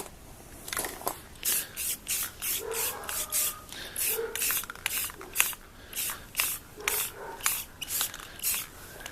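Aerosol spray can sprayed in many short hissing bursts in quick succession, about two or three a second.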